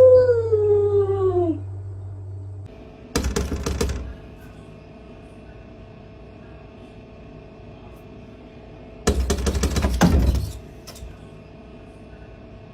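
A cat's long meow, falling in pitch, ending about a second and a half in. Then two bursts of rapid clattering, a little under a second and about a second and a half long, several seconds apart, over a faint steady hum.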